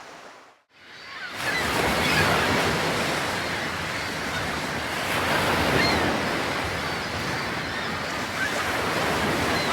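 Ocean waves washing in, a steady surf hiss that slowly swells and eases. It fades out to near silence briefly just after the start, then comes back in.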